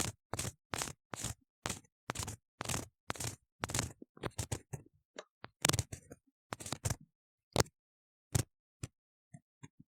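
An ear-cleaning tool scraping and scratching inside a silicone ear model. For about four seconds there are steady strokes, roughly two a second, then fewer and more irregular strokes, and only a few isolated scratches near the end.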